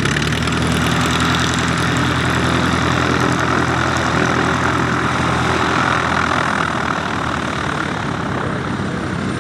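Light propeller aircraft taking off at full power, its engine and propeller noise strong and steady. The engine's low tones fade after about six seconds as it climbs away.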